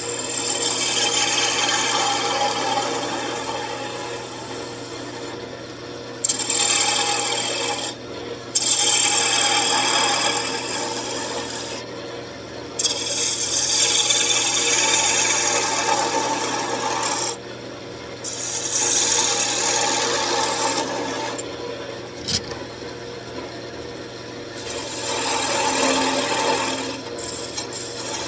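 A wood lathe running with a hand-held turning tool cutting into a spinning wooden blank, in a series of passes a few seconds long with short breaks between them. A steady low motor hum runs underneath.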